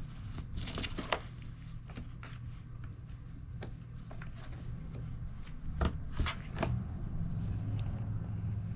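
Scattered light taps and rustles of a cat playing with a toy, a few sharper clicks about a second in and again around six seconds, over a steady low hum.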